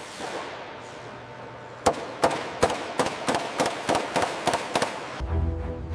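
A quick run of about a dozen sharp, echoing bangs, three or four a second, after an earlier bang dies away. Music with a heavy bass comes in near the end.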